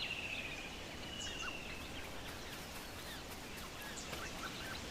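Outdoor bush ambience with birds calling: two trilled calls in the first second and a half, then scattered short chirps over a steady background hiss.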